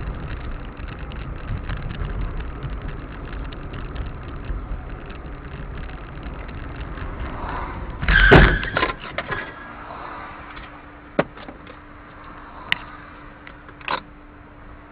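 Car noise picked up by a dash camera: steady road rumble, then one loud thump about eight seconds in. After it comes a quieter steady hum with a few sharp clicks.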